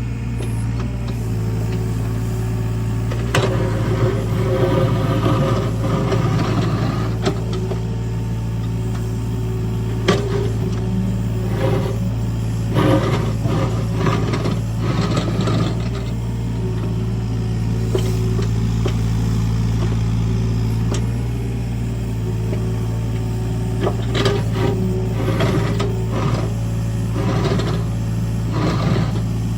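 Heavy earthmoving machine's engine running steadily under work, with repeated clanks and rattles from the machine and the gravel it moves.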